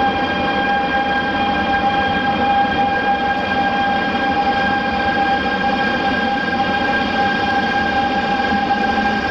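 Train running: a steady whine with several overtones held over a dense rushing noise.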